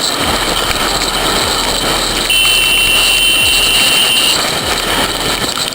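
Motorcycle riding with heavy wind and road noise, the engine pitch sliding as it changes speed. About two seconds in, a steady high-pitched beep sounds for about two seconds and then stops.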